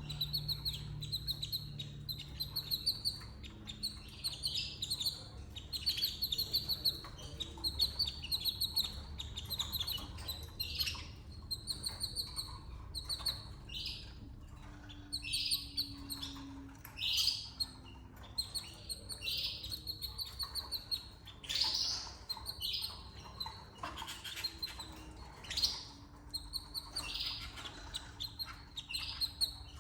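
Canaries chirping in repeated short runs of quick, high notes, with a faint steady low hum underneath.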